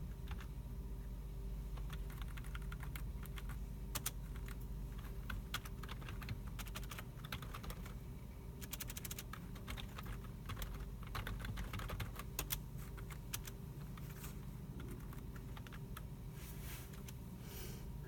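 Computer keyboards and mice clicking in a library computer room: irregular keystrokes, with a quick run of typing about halfway through, over a steady low hum.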